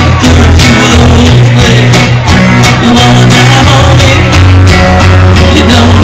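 Live country-rock band playing loudly, with electric guitar, heavy bass and a singer, recorded on a cell phone so the sound is overloaded and harsh.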